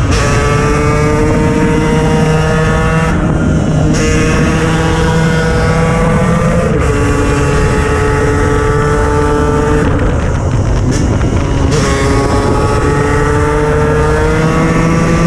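KTM 125 EXC's single-cylinder two-stroke engine running hard under way. Its pitch climbs slowly and breaks off briefly every few seconds, as at gear changes.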